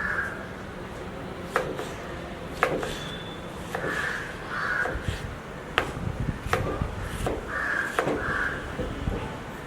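Short harsh bird calls, given in pairs about three times, with several sharp knocks in between.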